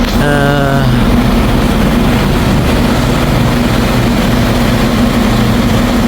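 Train standing at the platform with its engine idling: a steady, loud low hum. A short wavering pitched sound comes just after the start.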